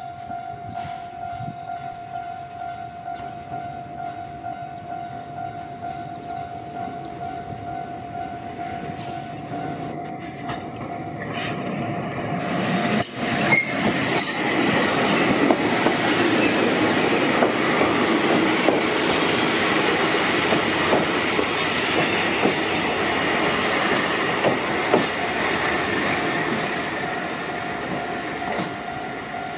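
Wakayama Electric Railway 2270 series electric train approaching and running into the station. It grows loud about twelve seconds in, with a sharp click, wheel-on-rail clatter and wheel squeal as it passes and slows. A level crossing warning alarm rings steadily throughout.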